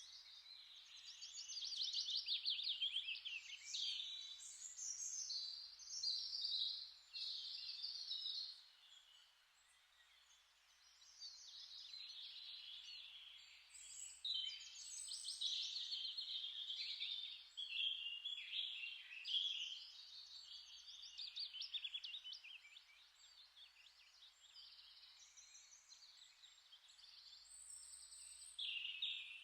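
Small songbirds singing, with quick twittering phrases and trills coming one after another, and a short complete silence about nine seconds in.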